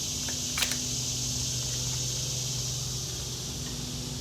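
Steady, high-pitched chorus of insects, with a low steady hum beneath it. There is one brief click about half a second in.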